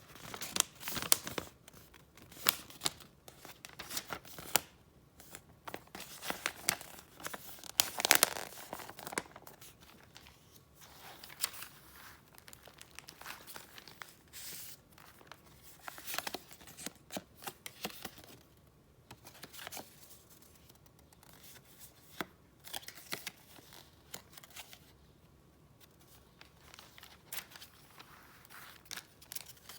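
Paper and gift packaging handled close to the microphone: irregular rustles and crinkles, busiest and loudest in the first ten seconds or so, then sparser and quieter.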